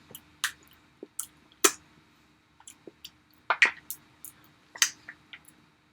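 A person chewing food close to the microphone: irregular wet mouth clicks and smacks with short gaps between them.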